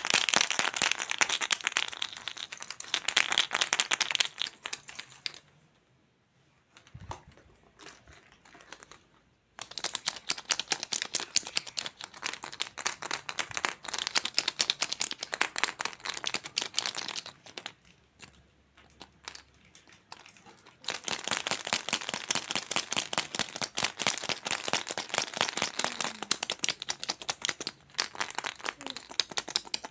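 Plastic crinkling and crackling close to the microphone in three long stretches, with short quiet pauses between them.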